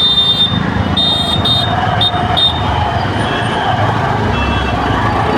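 Jammed road traffic: a steady rumble of idling and creeping vehicles. A high-pitched vehicle horn honks once at length at the start, then gives several short toots over the next two seconds or so.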